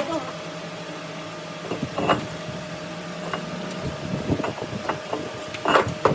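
Steady machine hum with scattered short metallic knocks and clinks, the loudest about two seconds in and near the end.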